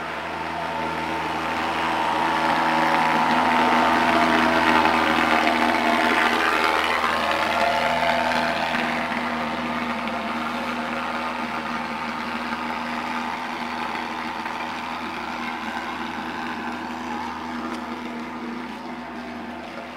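Truck-mounted thermal fogger spraying anti-mosquito fog, running with a steady, loud drone. It grows to its loudest about four to five seconds in, then slowly fades.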